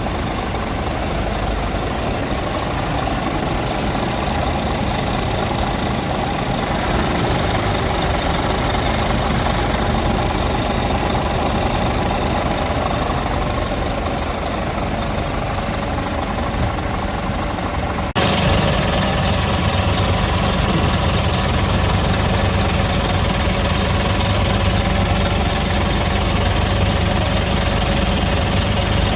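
Scania R truck tractor's diesel engine idling steadily. About eighteen seconds in, the sound steps up abruptly, louder and deeper.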